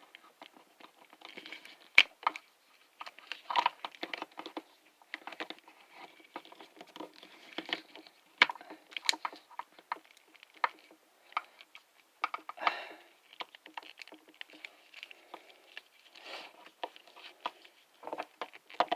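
Hard plastic clicking, scraping and rattling as a fin accessory is pushed and twisted into a plastic action figure, with one sharp click about two seconds in. The fin is a tight fit and will only go partway in.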